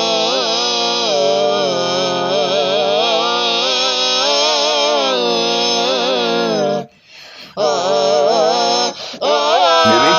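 Wordless vocal intro music: a sustained chant-like melody that slowly bends up and down in pitch, breaking off for about half a second around seven seconds in and again briefly near nine seconds.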